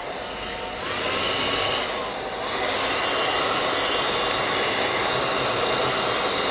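DEXP hand-held hair dryer running, its fan and motor blowing with a steady rush of air. The sound steps up about a second in, dips briefly around two seconds in and then holds at a higher level, as the dryer is run through its settings.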